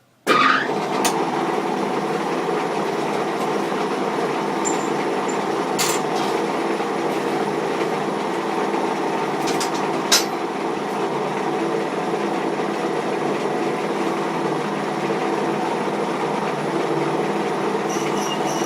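Metal lathe switched on and running steadily, a mechanical drone with several steady tones from its motor and gears, with a few sharp clicks along the way.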